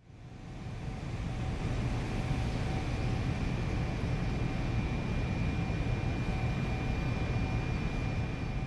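Keihan electric train: a steady low rumble with a thin, unchanging high-pitched hum and a fainter mid-pitched hum running through it.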